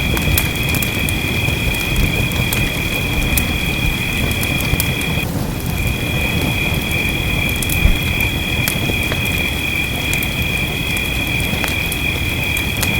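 Fireplace crackling over steady rain, with a low rumble underneath. A steady high-pitched tone runs through it and drops out briefly about five seconds in.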